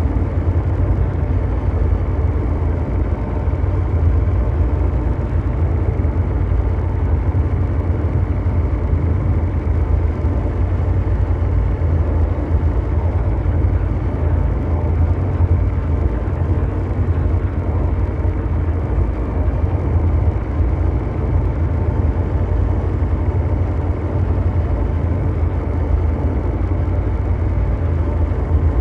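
Steady, continuous low mechanical drone: a deep rumbling brown-noise hum with faint steady tones above it, unchanging throughout.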